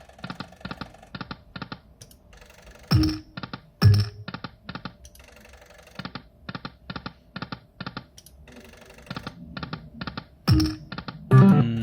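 Slot machine's electronic game sounds: a rapid, regular run of clicking ticks, about four a second, broken by a few louder thuds with a short tone, about three and four seconds in and again near the end.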